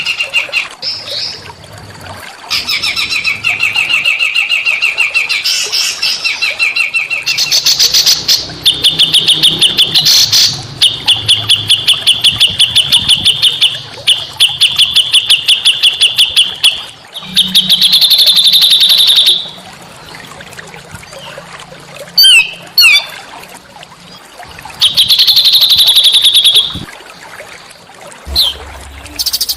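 Small songbird singing: loud, fast rattling trills of rapidly repeated high notes, in bursts of two to three seconds with short pauses between, and a few quick sweeping whistles a little after two-thirds of the way through.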